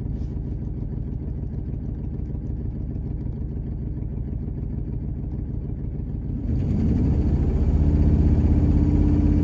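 Old farm truck's engine idling steadily, then revved up about two-thirds of the way through and held at a higher speed, while its fuel trim readings are being watched on a scan tool.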